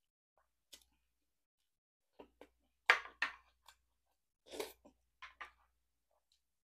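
Close-up eating sounds: a person chewing rice and stewed beef rib, with short, scattered mouth smacks and clicks, the loudest about three seconds in.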